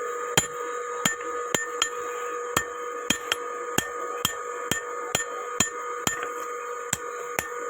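Blacksmith's hammer striking metal on an anvil while forging a hoe: sharp blows, a little unevenly spaced at about two a second, over a steady ringing tone.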